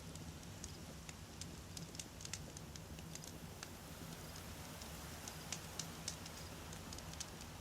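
Wood fire burning, with frequent small, sharp, irregular crackles and pops over a steady low rumble.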